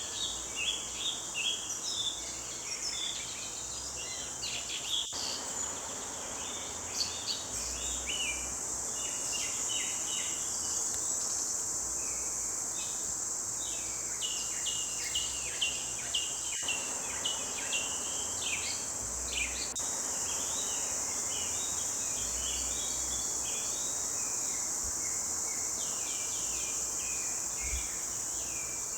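Forest bird chorus: several songbirds singing short, quick chirps and trills, over a steady high-pitched drone of insects.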